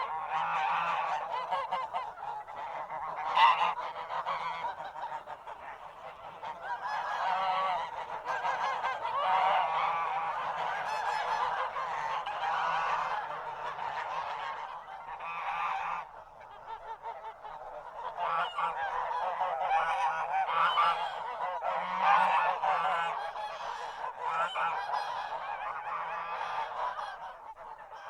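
A flock of geese honking continuously, many calls overlapping, with one sharper, louder honk about three seconds in.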